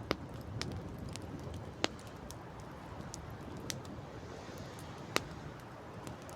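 Wood campfire crackling, with sharp single pops every second or two, the loudest about two seconds and five seconds in, over a steady rush of wind and sea.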